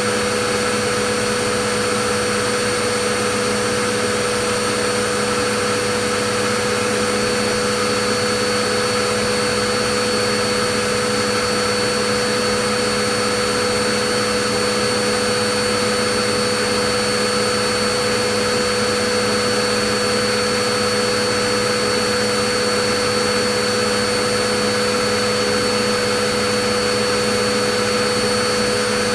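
Vacuum cleaner running steadily: an even rushing noise with a held motor hum and a thin high whine, neither changing in pitch or loudness.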